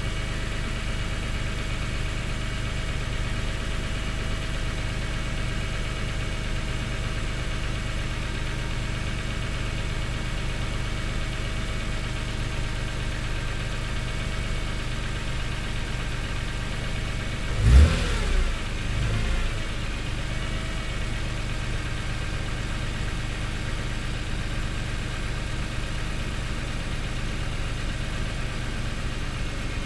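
Car engine idling steadily while warming up after an overnight cold start. A short, louder surge with a brief sweep in pitch comes about two-thirds of the way through before the idle settles again.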